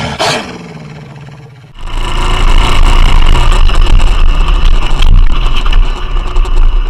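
Motorcycle engine whose pitch drops at the start, then quieter running. From about two seconds in comes a loud, steady rush of engine and wind noise, as from a bike under way.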